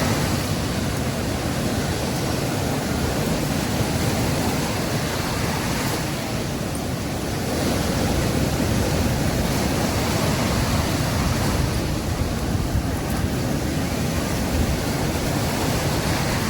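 Sea waves washing onto a beach: a continuous rush of surf that eases briefly about six seconds in and then builds again.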